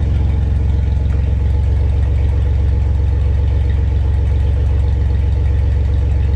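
Car engine idling steadily, with an even low rumble that does not change. Its 78-amp alternator is charging the battery at just over 14 volts.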